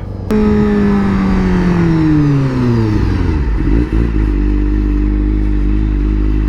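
Sportbike engine dropping steadily in pitch for about three seconds as the bike slows, then settling to a steady low idle.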